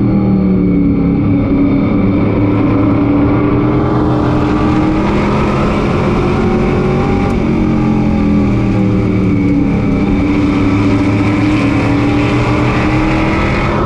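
Race truck engine heard onboard, running hard under racing load, its pitch rising and falling again and again as the throttle opens and lifts through the laps. A hiss of wind and road noise grows about four seconds in.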